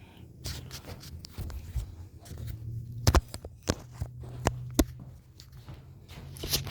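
Weather radios being handled: a few sharp clicks and knocks over a low steady hum that comes in partway through.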